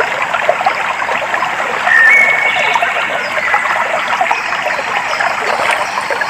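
Shallow stream babbling and trickling steadily over stones. A bird gives a short whistled note about two seconds in, with faint high bird notes in the background.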